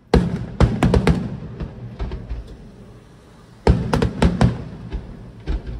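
Aerial firework shells bursting in two rapid volleys of bangs, one just after the start and one near the four-second mark, with a few more near the end, each volley trailing off in a low echoing rumble.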